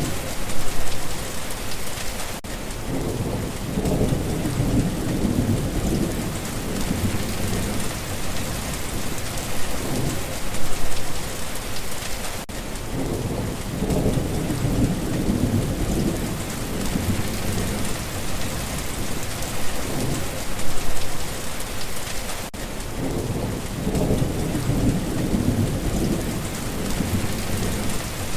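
Steady rain falling, with low rolling thunder rumbling three times, about ten seconds apart.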